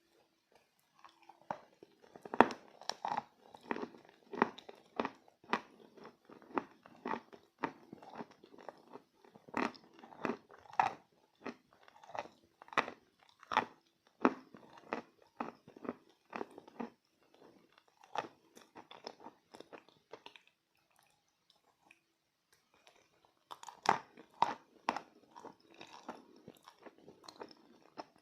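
Close-miked biting and chewing of edible chalk: repeated sharp crunches, roughly one or two a second. They stop for a few seconds a little past the middle and start again with a few loud bites.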